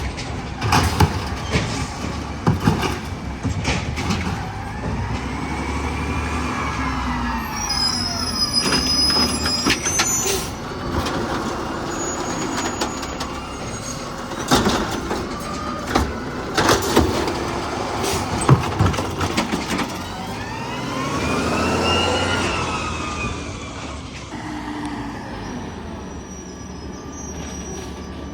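Garbage truck working at the curb: the engine rumbles, with repeated knocks and bangs, and twice a whine rises and falls as the engine revs for the hydraulics.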